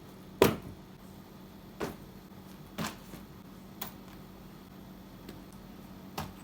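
Five sharp knocks or clicks at irregular intervals, the first the loudest, over a steady low hum.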